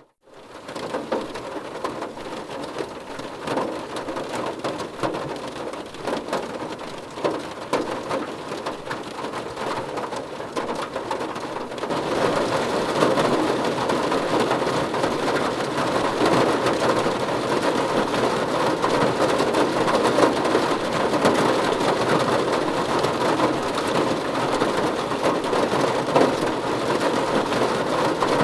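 Rain falling steadily, a dense patter that gets louder and fuller about twelve seconds in.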